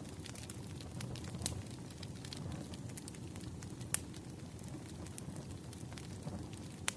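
Wood fire crackling: a steady low rumble of burning with scattered sharp pops, the loudest about four seconds in and again near the end.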